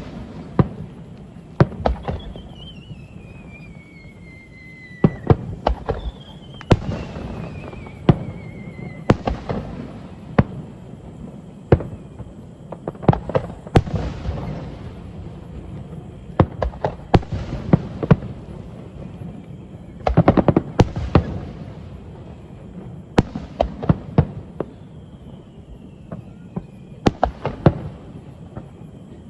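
Fireworks display: a continual run of sharp shell bursts and crackles, some with rumbling tails. Several thin whistles slide slowly down in pitch among them, the longest at about two seconds and six seconds in.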